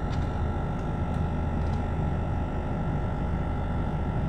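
Steady low rumble of a car's running engine heard from inside the cabin, with a faint steady hum above it and a few light clicks in the first two seconds.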